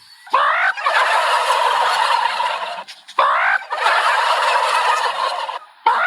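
Turkey gobbling: two long calls, each opening with a quick rising note and running into a dense rattling warble, with a third call starting near the end.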